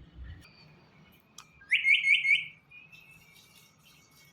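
Indian ringneck parrot giving a quick run of four rising, whistle-like chirps about two seconds in.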